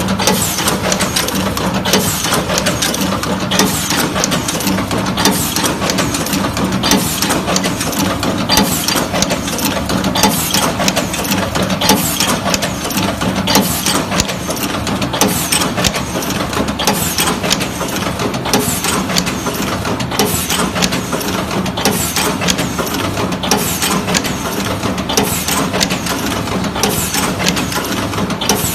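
Yuanhan YH-380 3-core cable stripping, twisting and tin-soldering machine running, a steady hum under frequent, irregular clicks and clacks from its mechanism.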